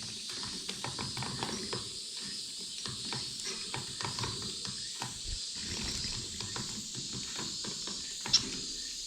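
Small cage finches feeding at close range: a rapid, irregular patter of little clicks and taps from beaks cracking seed, with soft high chirps and low rustling of movement. One sharp chirp stands out near the end.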